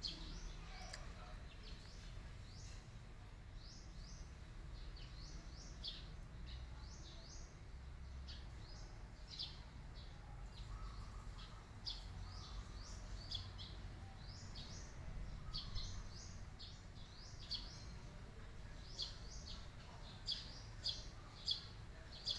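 Small birds chirping: many short, high chirps in quick runs, coming more often in the second half, over a faint low background rumble.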